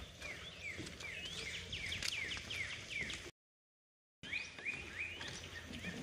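A songbird singing a rapid series of repeated down-slurred whistled notes, about three a second, over a faint outdoor background. The audio cuts out completely for about a second just past the middle, and then the notes resume.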